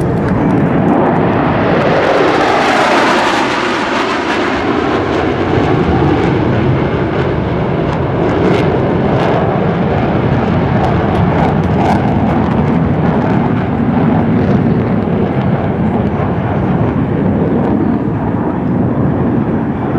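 Jet roar of a formation of four F-14 Tomcats flying past, loudest and sharpest about two to three seconds in, then easing into a lower, steady rumble with a few crackles.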